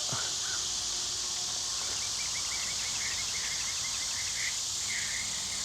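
Steady high-pitched insect drone, with a bird chirping in a quick series of short notes from about two seconds in.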